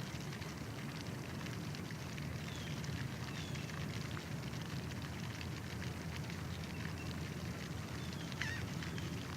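A few faint, short bird chirps over steady low rumbling noise and many small scattered clicks.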